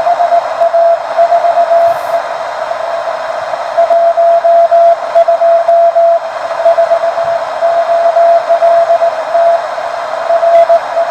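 Morse code (CW) from an amateur station on the 30-metre band, received on a home-built WBR regenerative receiver and played through an MFJ-281 Cleartone speaker. A single mid-pitched tone is keyed on and off in dots and dashes over steady band hiss.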